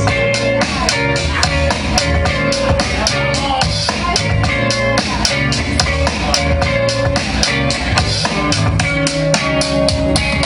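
Live hip hop band playing an instrumental passage: a drum kit keeps a steady beat over bass and guitar.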